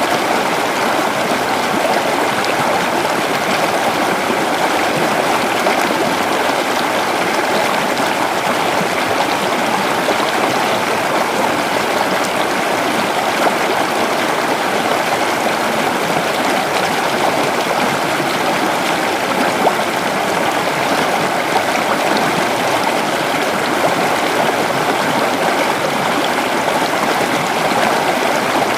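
Creek water flowing steadily over rocks, an even rushing babble with no breaks.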